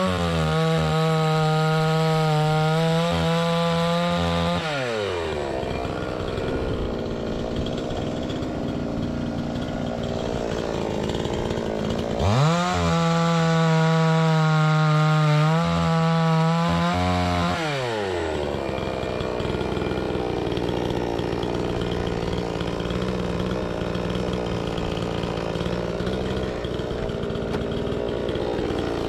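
Two-stroke chainsaw run up to full throttle twice, each time holding a high steady note for about five seconds, then gliding back down to a rough idle.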